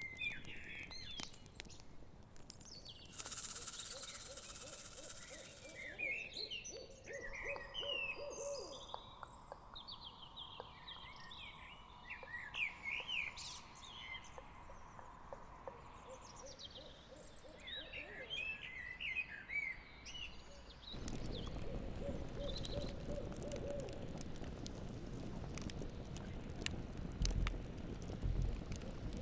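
Night forest ambience: an owl hooting in a quick run of hoots, twice, over chirping calls, with a campfire crackling and a low rushing noise that takes over in the last third.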